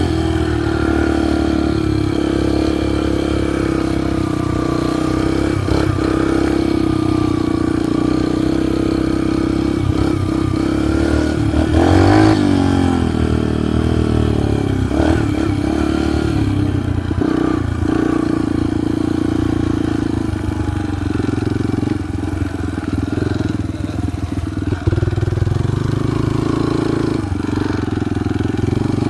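Dirt bike engine running steadily while being ridden, with a brief rise and fall in engine pitch about twelve seconds in.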